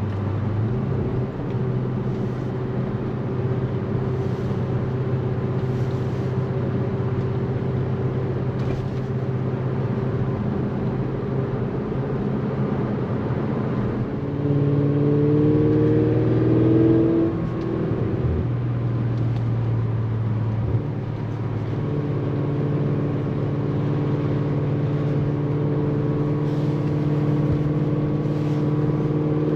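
Tuned Audi S6's engine and exhaust while driving: a steady cruising drone, with a brief louder pull, rising in pitch, about halfway through, before it settles back to steady cruising.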